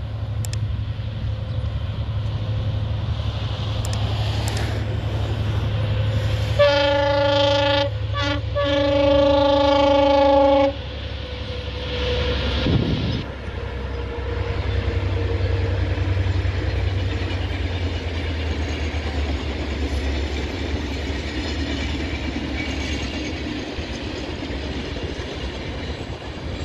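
Henschel diesel locomotive hauling a train past with a steady low engine rumble. About seven seconds in it sounds its horn, a short blast and then a longer one, about four seconds in all. Afterwards the cars roll by on the rails.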